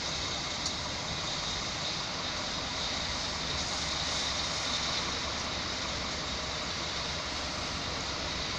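Steady mechanical noise of railway traffic at a main station, a constant hiss and rumble with no rise or fall, most likely from a train standing or running at the platform. A single faint click sounds about half a second in.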